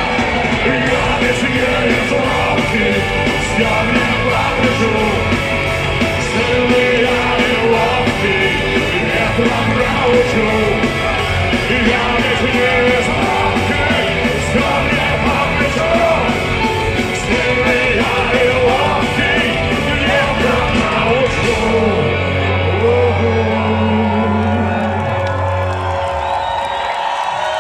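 Live rock band playing the closing part of a song, loud and dense, with yelled voices over it. About 22 seconds in the band lands on a held final chord that dies away near the end.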